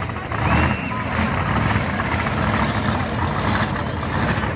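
Monster truck engines idling with a steady low rumble.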